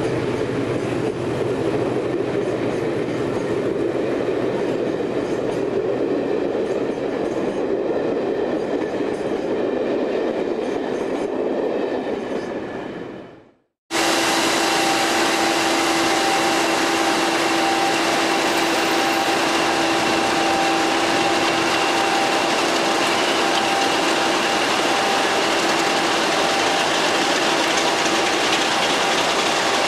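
Coaches of a train rolling past along the platform with a steady rumble and wheel clatter, fading out about 13 seconds in. After a cut, Class 50 diesel locomotives with English Electric 16CSVT engines idling, with a steady whine.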